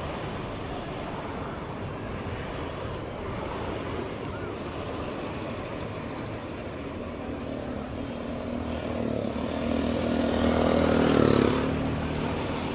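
A motor vehicle passes close by over steady outdoor background noise. Its engine note grows louder over about four seconds and drops away sharply near the end.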